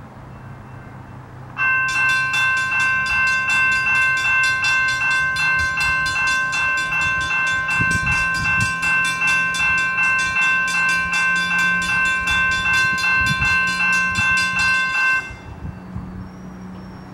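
Railroad grade-crossing warning bells, a General Signals Type 2 electronic bell and a Safetran hybrid bell, ringing together in rapid, even strikes. They start about a second and a half in and cut off suddenly near the end, which at this crossing marks the gates finishing their travel. A low hum runs underneath.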